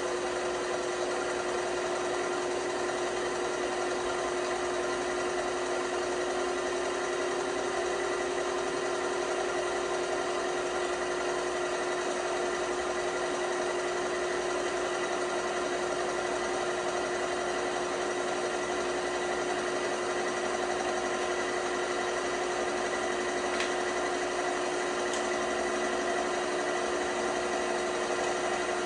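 LG washing machine running with a steady motor hum and whine that holds constant pitch throughout.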